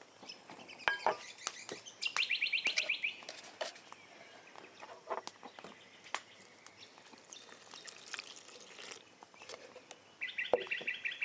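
Birds calling, with a fast run of repeated high chirps about two seconds in and another near the end, over scattered sharp clicks.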